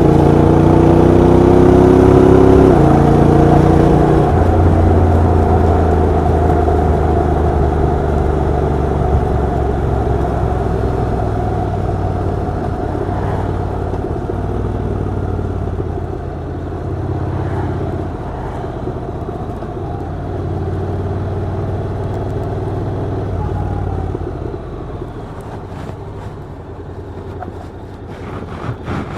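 Honda NC750X DCT motorcycle's parallel-twin engine, heard through its exhaust, accelerating with a rising pitch and a gear change about three seconds in, then running at a steady speed and slowly getting quieter toward the end.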